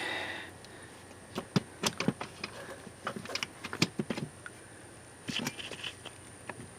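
Irregular light clicks and taps, a quick run of them in the middle and a short cluster near the end: hands and tools working on the switched-off outdoor AC condenser unit as it is opened up.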